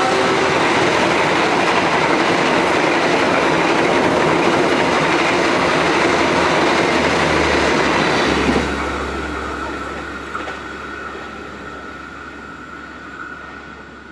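A train passing close by, a loud steady rush of wheels and cars on the rails; about two-thirds of the way through the noise drops off and fades as the train moves away, leaving a faint steady high tone.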